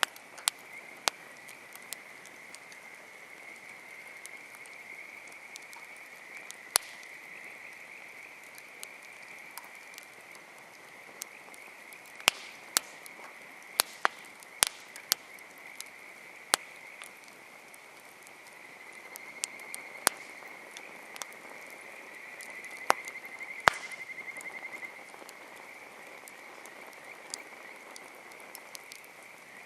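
Wood campfire crackling, with irregular sharp pops and snaps every second or so, over a steady high-pitched trilling chorus in the background that swells for a few seconds near the end.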